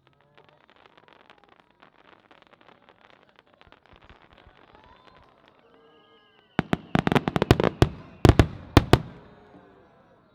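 Fireworks going off: faint, dense crackling at first, then, about six and a half seconds in, a rapid run of loud sharp bangs and crackles lasting a few seconds before it fades.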